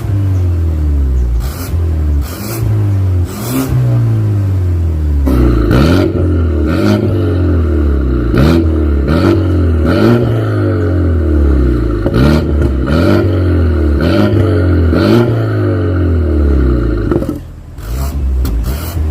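BMW F30 320i's N20 turbocharged four-cylinder running through an aftermarket stainless full-system valvetronic exhaust, revved in repeated quick throttle blips, the pitch rising and falling about once a second. The revving eases briefly near the end.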